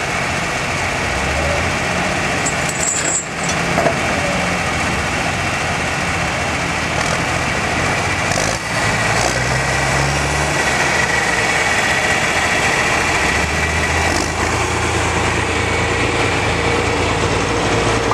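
John Deere 4020 tractor's six-cylinder engine working hard under load while pulling the sled, loud and continuous, its pitch shifting a few times.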